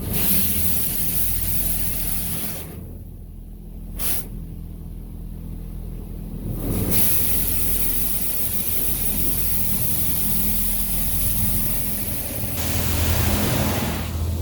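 Water jets of a touchless automatic car wash spraying against the van, heard from inside the cabin as a loud hiss over a low steady hum. The spray drops away a couple of seconds in, a short sharp knock comes near the middle, then the spray returns and builds.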